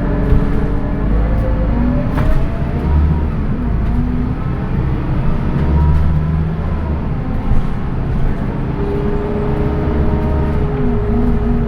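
Scania K230UB bus's diesel engine and ZF automatic gearbox under way: the engine note rises as the bus accelerates, drops at gear changes, and rises again, with a steady gearbox whine joining near the end.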